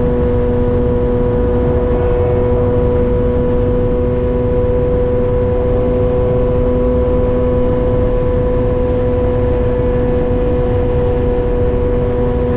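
Yamaha XJ6's inline-four engine running at a steady, unchanging speed through a Dominator GP full exhaust system with its dB killer fitted.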